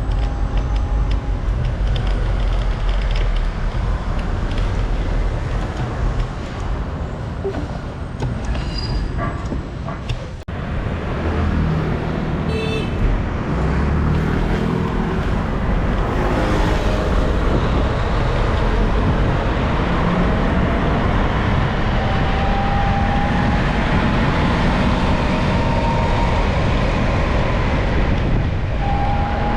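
Wind buffeting the microphone over steady road-traffic noise, heard while riding through city streets. A vehicle horn toots briefly about twelve seconds in, and a whine rises slowly over the last several seconds.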